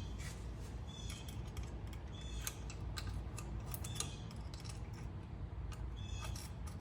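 Sharp metallic clicks and clinks, roughly one a second, some with a brief ring, from hand tools working on a tractor's PTO lever, over a steady low rumble.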